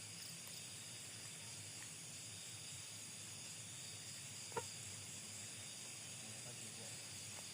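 Faint, steady chirring of night insects such as crickets, over a low hiss, with one sharp click about halfway through.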